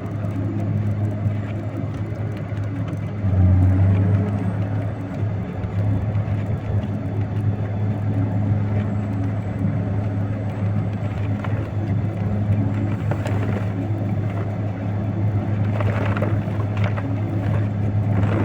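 Truck engine running steadily under way, heard from inside the cab, with a brief louder surge about three and a half seconds in.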